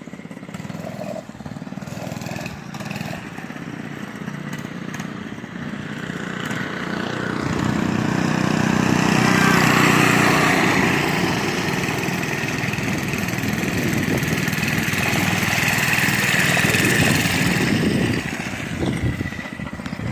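Gas mini bike's small engine running, growing louder from about six seconds in as the bike comes close, loudest at about ten seconds and staying loud before dropping away near the end.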